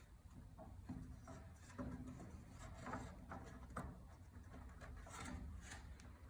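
Faint, irregular rubbing and light knocks of wood being worked or handled by hand.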